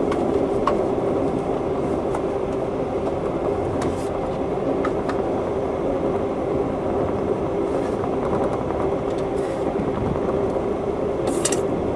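Steady rumble and hum of an Amtrak Empire Builder passenger car riding on the rails, heard from inside the car, with a few faint clicks and rattles.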